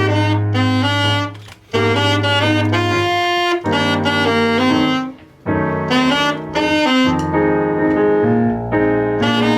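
A jazz band playing an instrumental passage, a saxophone-like lead over piano and bass. The whole band stops dead twice for a moment, once at about a second and a half in and again a little after five seconds.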